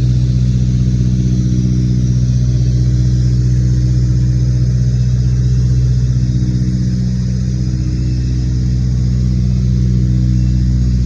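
Beech 18's twin radial engines running with a steady, even drone and a faint regular throb.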